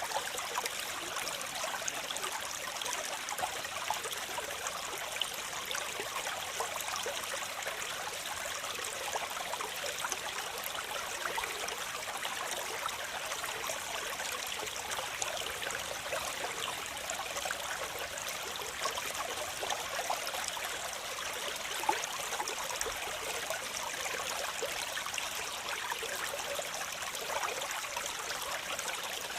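Waterfall: water falling and splashing in a steady, even rush with fine splashes, light on deep rumble.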